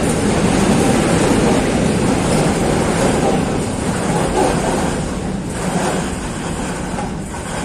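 Loaded freight train of open coal wagons rolling past: a steady rumble of wheels on the rails that eases slightly near the end.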